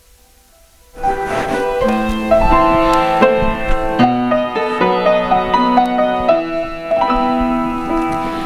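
Keyboard instrumental introduction to a hymn: sustained chords under a slow melody, starting about a second in.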